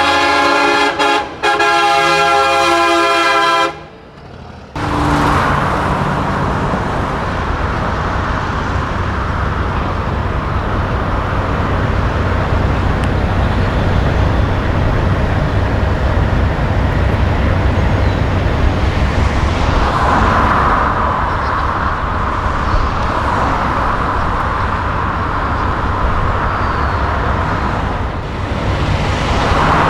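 Semi truck's air horn sounding a loud multi-note chord, with a short break about a second in, cutting off after nearly four seconds. Then a diesel truck engine running with a steady low rumble, swelling louder twice.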